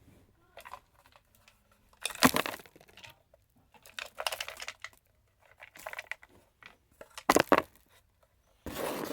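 Plastic clacks, scrapes and rustling as the emptor is unlatched and pulled off a Kirby G4 upright vacuum, in irregular short bursts with sharp knocks a little over two seconds in and about seven and a half seconds in.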